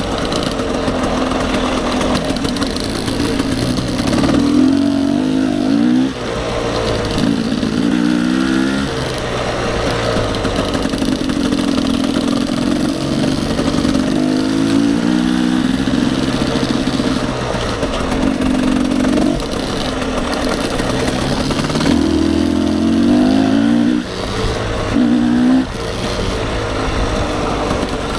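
Dirt bike engine running under load, its pitch climbing again and again as the throttle is opened and eased off.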